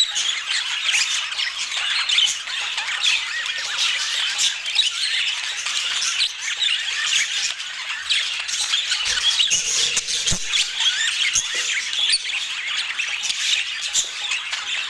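A flock of budgerigars chattering and squawking, many quick overlapping chirps and warbles running on without a break.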